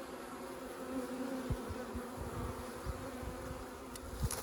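A swarm of honeybees buzzing in a steady, many-voiced hum around the hive boxes they have just been shaken into. A few dull low thumps come through, the loudest near the end.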